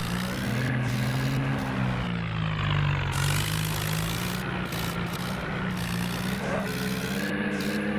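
Tractor engine running steadily, its pitch slowly rising and falling.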